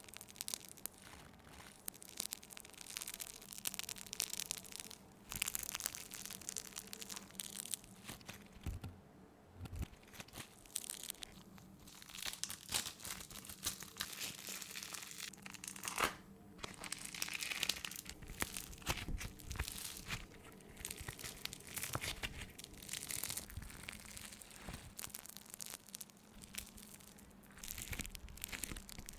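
Foam clay squeezed and pulled apart close to the microphone: dense crackling with sticky, tearing sounds, on and off with short pauses.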